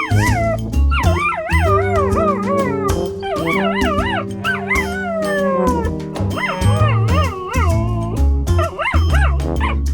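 Background music with a steady beat, over which a dog howls and whines in wavering calls that rise and fall in pitch, several times over.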